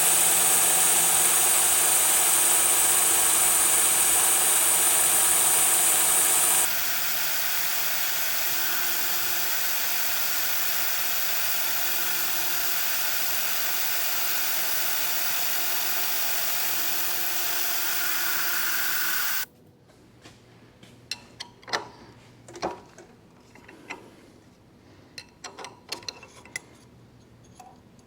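A manual milling machine runs a 1/2-inch reamer into the hole while the mist coolant sprays with a loud steady hiss. The hiss drops in level about seven seconds in and cuts off abruptly about twenty seconds in. After that come scattered clicks and clinks.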